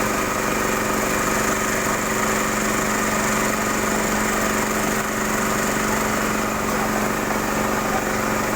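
Small boat engine running steadily at an even speed, a constant buzzing drone with no change in pitch.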